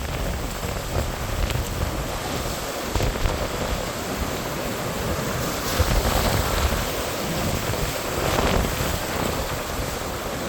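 Strong gusting wind buffeting the microphone: a steady rushing noise with uneven low rumbles.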